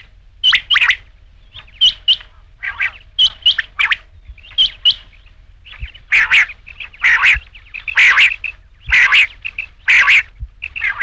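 Rain quail calling: short, sharp notes repeated quickly in pairs and short runs, a few per second.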